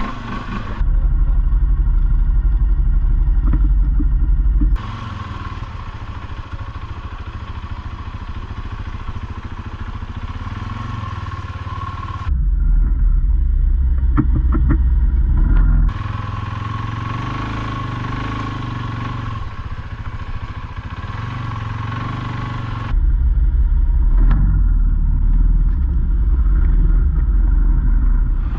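All-terrain vehicle engine running under way on a trail ride. Three times, for several seconds each, the sound switches abruptly to a heavy low rumble with the higher sounds dulled, then back again.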